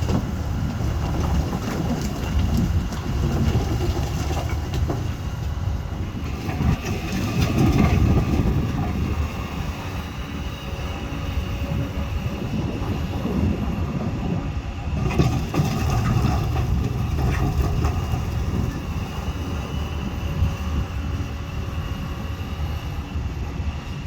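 A loader's diesel engine running steadily with a heavy low rumble that swells and eases, with a few short knocks of metal along the way.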